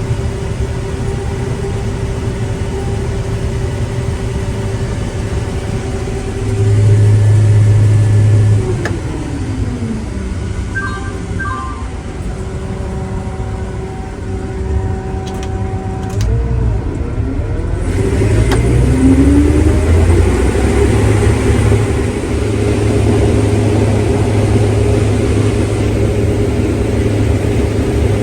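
Farm tractor engine running steadily. Its pitch drops about nine seconds in and the engine runs louder again from about eighteen seconds. Two short pairs of beeps sound near the middle.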